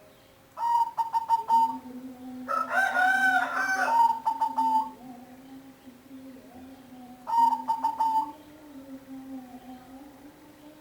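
Bird calls: three pitched calls, the middle one longest and loudest with a rise and fall in pitch, over a steady low hum.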